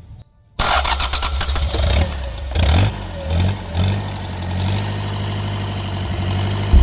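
Freshly overhauled Mitsubishi K4F four-cylinder diesel engine starting: it catches suddenly about half a second in, runs unevenly with a few rev surges, then settles to a steady idle.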